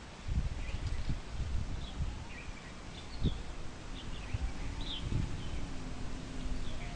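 Small birds chirping now and then over an uneven low rumbling with soft thumps. A faint steady hum comes in about halfway through.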